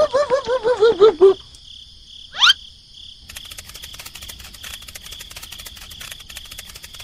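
Edited-in cartoon sound effects: a quick run of about eight short warbling squeaks in the first second or so, a single rising whistle-like glide about two and a half seconds in, then a chirping-crickets ambience with rapid fine ticking for the rest.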